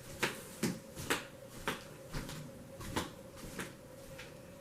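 Light, irregular clicks and taps of hand handling, about eight in four seconds, over a faint steady hum.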